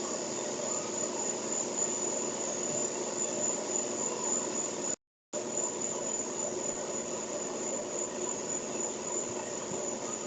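Steady background of insects chirring: a continuous high-pitched buzz over an even low hum. The sound cuts out completely for a moment about halfway through.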